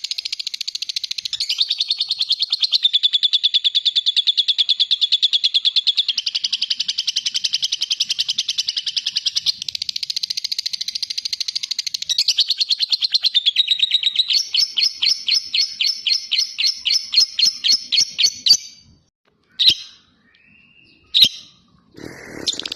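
Lovebird ngekek: a long, rapid, high chattering trill. About 14 seconds in it slows to separate, louder notes, then breaks off; two short single calls follow, and the chatter starts again near the end.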